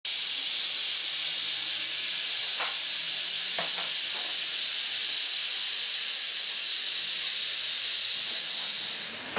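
Steady high-pitched hiss, like a jet of air or spray, with a couple of faint clicks, fading out near the end.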